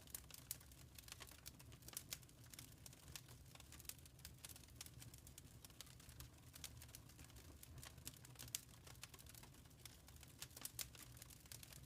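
Fire in a fireplace crackling faintly: irregular small snaps and pops, a few a second and uneven, over a low steady rumble.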